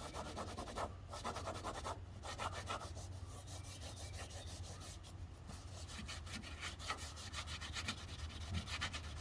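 Hand scrubbing and wiping strokes on the interior surfaces of a stripped 1969 Chrysler Newport as grime is worked off with wheel and tire cleaner. The strokes come in quick, irregular bursts over a steady low hum.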